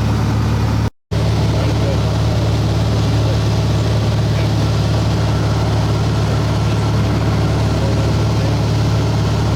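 Light aircraft's piston engine and propeller droning steadily, heard from inside the cabin, with a strong low hum. The sound cuts out completely for a split second about a second in.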